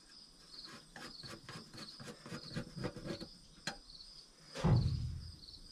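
Crickets chirping steadily throughout, with a run of short clicks and knocks from tools on the truck's engine in the first half and one heavier thud near the end.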